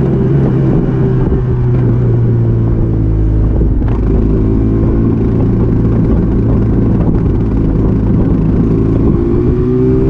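Stock 2005 Aprilia RS125's single-cylinder two-stroke engine running at low, fairly steady revs, its pitch sagging a little and then rising again near the end.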